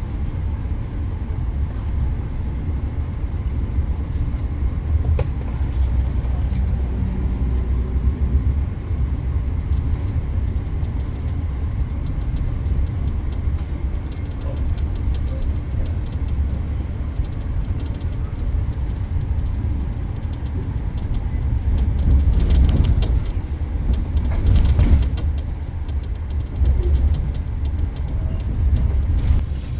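Passenger train running along the track, heard from inside the carriage: a steady low rumble, with a run of clicks and rattles a little past two-thirds of the way through.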